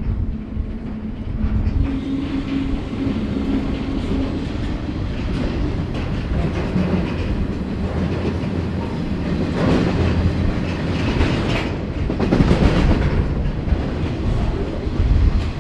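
Freight train running at speed, heard from on board the train: a steady rumble of the wagons with wheels clattering over the rail joints, louder clatter about ten and twelve seconds in.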